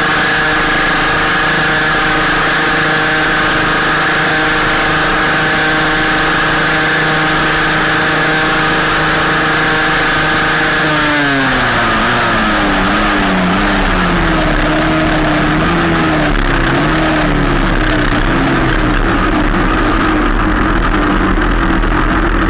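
Yamaha RX-Z two-stroke single-cylinder motorcycle engine held at steady high revs at top speed, with a loud rushing noise over it. About halfway through the engine note drops, then wavers up and down to the end as the throttle is eased and the bike slows.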